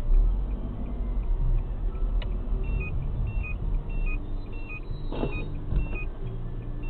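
A car driving, with a steady low road and engine rumble. From a little over halfway in there is a run of short, high electronic beeps, about three a second.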